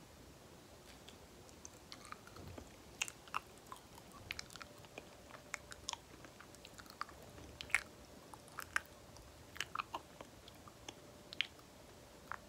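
Close-miked chewing of banana, with sticky, wet mouth clicks and smacks coming irregularly from about two seconds in.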